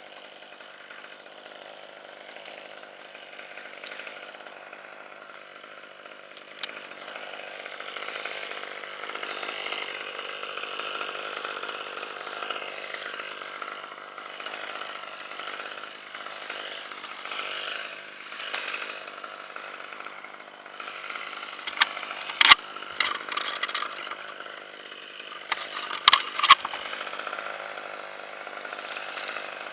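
Chainsaw running and cutting through red oak, its pitch rising and falling as it works the cuts. Several sharp cracks or knocks come in a cluster about two-thirds of the way through and again a few seconds later.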